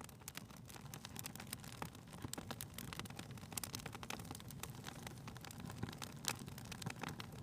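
Wood fire crackling in a fireplace: dense, irregular pops and snaps over a low, steady rumble, with one sharper pop about six seconds in.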